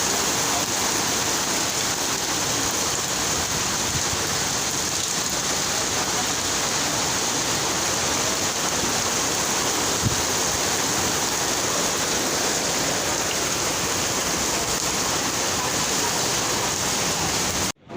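Steady rushing of floodwater through a swollen nullah (urban storm-water channel) running in spate. It cuts off suddenly near the end.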